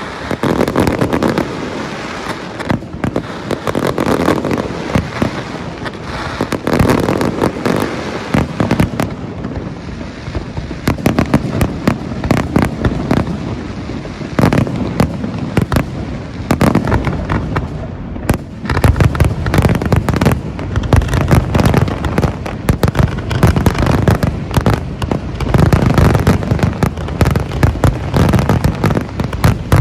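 A fireworks display going off in a dense, continuous barrage of bangs and crackling, with the low booms heavier in the second half.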